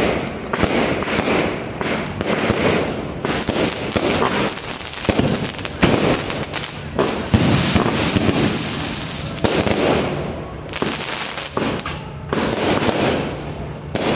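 Aerial fireworks going off in quick succession: repeated bangs of bursting shells over dense crackle, almost without a break.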